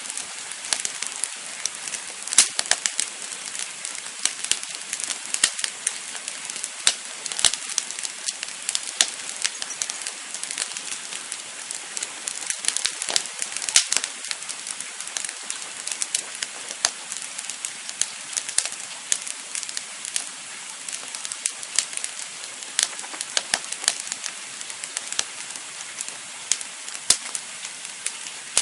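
Wood campfire crackling: a steady hiss with frequent irregular pops and snaps, a few of them sharply louder.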